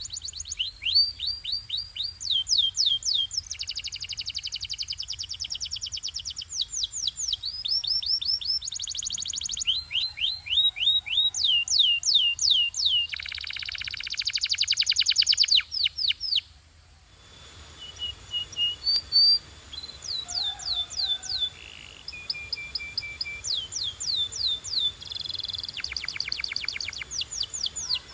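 Domestic canary singing: fast trills of repeated downward-sweeping notes, switching to a new trill every second or two. There is a brief break about sixteen seconds in before the song starts again.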